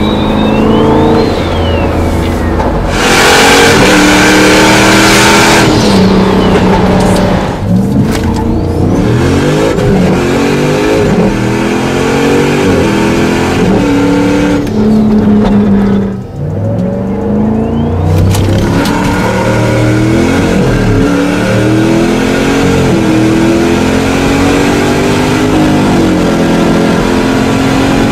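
Single-turbocharged 2014 Jeep Grand Cherokee SRT8's 6.4-litre HEMI V8 accelerating hard, its revs climbing and dropping again and again through gear changes. A high whistle rises and falls near the start, and a loud hissing rush comes a few seconds in.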